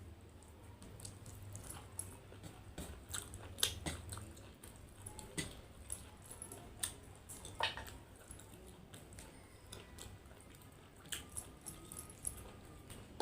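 Close-miked chewing and biting sounds of a person eating chicken curry with rice, with many short wet clicks and smacks at irregular intervals.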